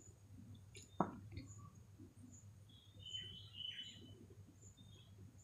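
Faint bird chirps in the background: a couple of short high calls about three seconds in. A soft knock comes about a second in.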